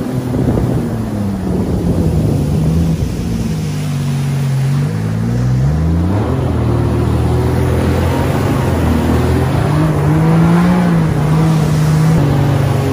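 Jet ski engine running under way, its pitch sagging over the first few seconds, climbing sharply about five seconds in as the throttle opens, then holding steady, with water and wind noise beneath it.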